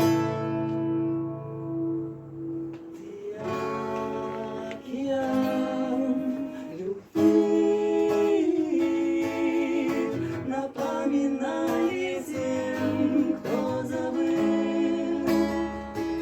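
Live acoustic guitar song: a strummed chord rings out and fades, then strumming resumes about three seconds in under a singing voice carrying a melody.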